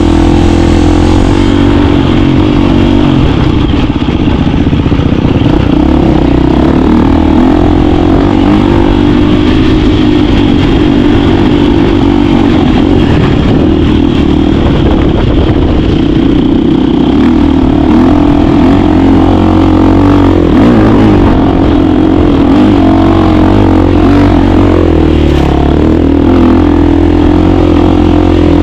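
KTM 350 dirt bike's single-cylinder four-stroke engine running as the bike is ridden, its pitch rising and falling a little with the throttle.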